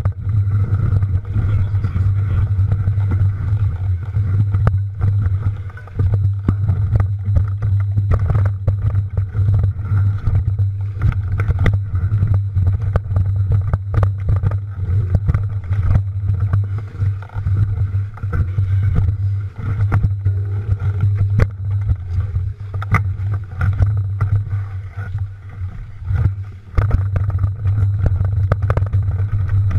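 Mountain bike being ridden over rough trail, recorded on a camera mounted on the bike or rider: a steady low rumble with frequent clicks and rattles from the bike jolting over the ground.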